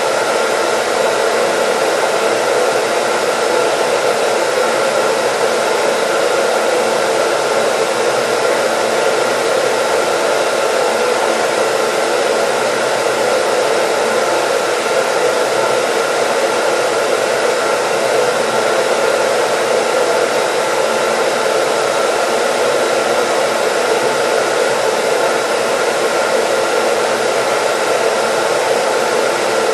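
Hair dryer running steadily: a constant, even whoosh of motor and airflow with faint steady whining tones, unchanging throughout.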